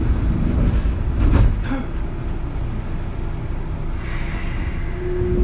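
Interior running noise of a Kintetsu 3200-series electric train, heard from inside the motor car: a steady low rumble of wheels on rail with a couple of clacks from rail joints. A steady whine comes from the Mitsubishi early-type GTO VVVF inverter traction equipment, a unit known for its unusual sound.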